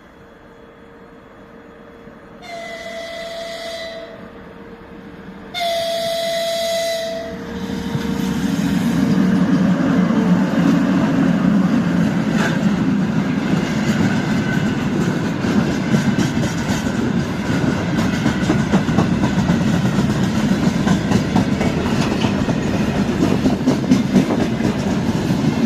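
A 2ES6 'Sinara' electric locomotive sounds its horn twice, a shorter blast and then a longer one, each a steady tone. It then passes hauling wagons of sand, and the noisy rumble of its wheels and the wagons' clickety-clack on the rails runs on loudly.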